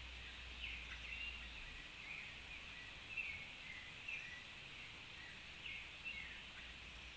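Birds calling in short chirps, about a dozen scattered notes, some sliding down in pitch, over a steady hiss from a small stream.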